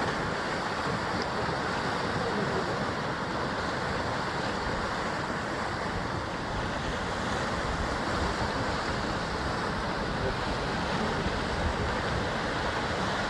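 Sea surf washing continuously against the basalt-column cliffs of a rocky shore: a dense, steady rush of water with no single wave standing out.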